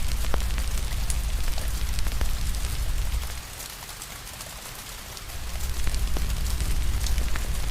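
Steady rain hiss with scattered sharp crackles from a wood fire. A low rumble underneath drops away for about two seconds midway, then returns.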